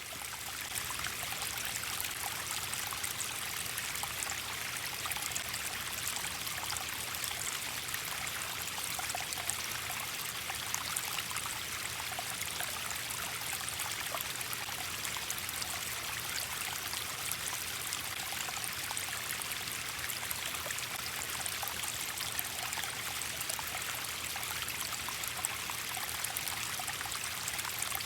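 Running water, like a small stream trickling, a steady even rush that does not change.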